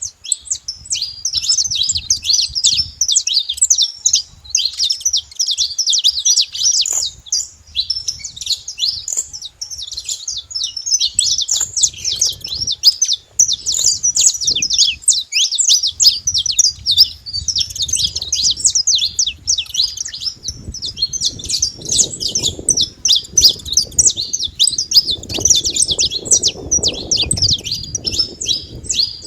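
A flock of saffron finches chirping and singing all together, a dense, unbroken chatter of quick high notes. A low rumble joins in during the second half.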